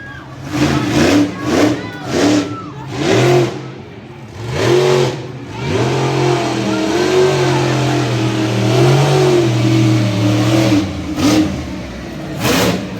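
Monster truck engine revving in a quick series of short blips. It is then held at high revs for about five seconds, the pitch wavering up and down, and gives two more sharp revs near the end.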